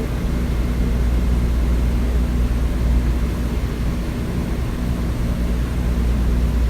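A deep, steady engine-like rumble with a low droning hum, slowly growing louder.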